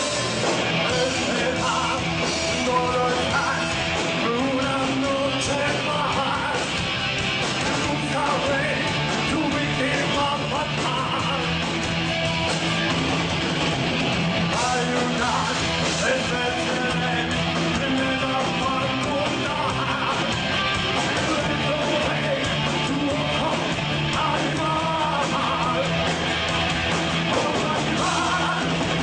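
Rock band playing a song with electric guitars and a singer, loud and unbroken throughout.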